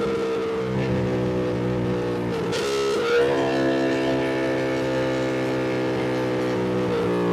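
Ducati Panigale V2's V-twin engine pulling at steady revs under riding, its note holding level with brief breaks about two and a half seconds in and again near the end.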